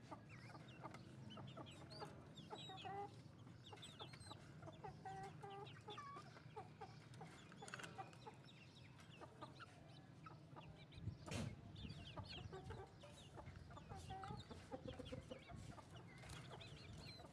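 Faint clucking and short calls of Aseel chickens, scattered throughout, with a brief thump about 11 seconds in.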